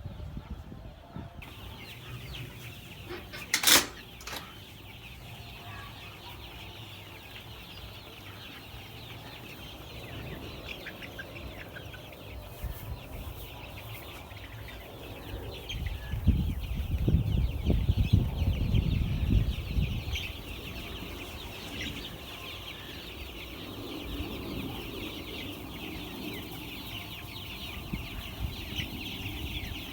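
A flock of young chicks peeping and cheeping continuously, many small voices at once. There is a sharp knock about four seconds in, and a low rumbling for a few seconds around the middle.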